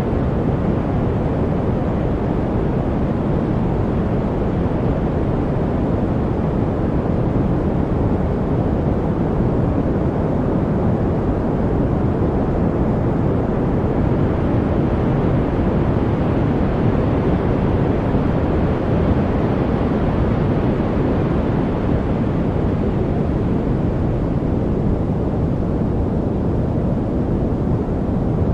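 Steady noise track of the deep, rumbling kind: an even hiss, heaviest in the low range and dull at the top, that never changes.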